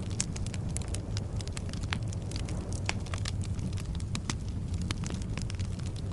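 Bonfire burning: the low, steady roar of the flames with irregular sharp crackles and pops of burning wood, many each second.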